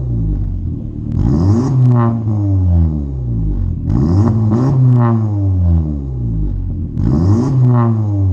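Honda Civic RS engine with an aftermarket intake and exhaust, free-revved three times, about every three seconds. Each time the pitch sweeps up and falls back to idle, with a hiss on each rise.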